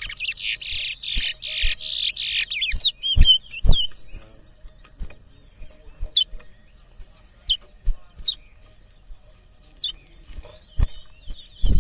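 Caged towa-towa finch singing a loud, rapid warbling song for about three seconds, then only scattered single chirps. This is the kind of song that is counted in a bird race. A few sharp knocks are heard around it.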